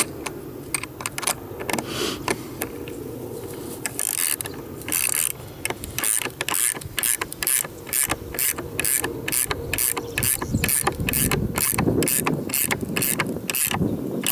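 Hand ratchet wrench clicking in quick repeated strokes, about three clicks a second and steadier in the second half, as the wheel axles are tightened onto the frame.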